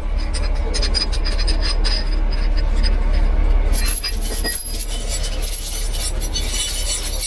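A steady low rumble with scattered metallic clinks and scrapes as recovery rigging is handled; a faint high steady whine joins about four seconds in.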